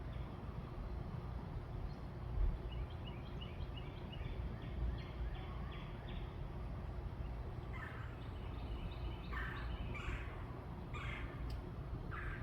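Birds calling in a backyard: a quick run of short high chirps, then several louder harsh calls about a second apart near the end, over a steady low background rumble.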